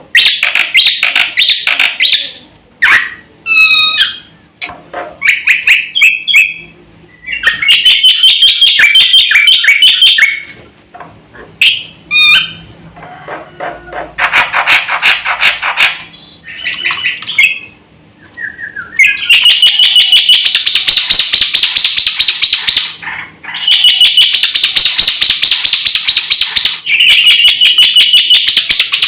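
Black-winged starling (jalak putih) singing loudly. Its song comes in long bursts of rapid, rattling chatter, broken by short whistled notes and brief pauses.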